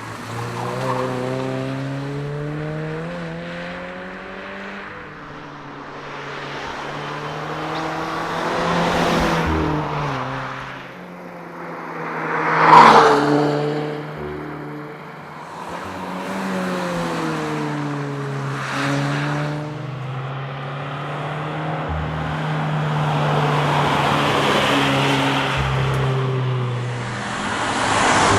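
Toyota 86's 2.0-litre flat-four engine accelerating and dropping back through several gear changes at speed, over swelling tyre and road noise. About halfway through there is a brief, very loud rush of noise.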